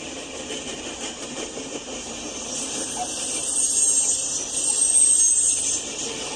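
Freight train rolling past with a steady rumbling noise. A loud high-pitched hiss swells up about two and a half seconds in and fades away near the end.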